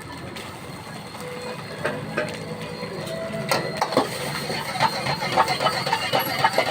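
Stir-frying: a metal spatula scraping and knocking against a pan in a rapid, irregular clatter. It gets much busier and louder about halfway through.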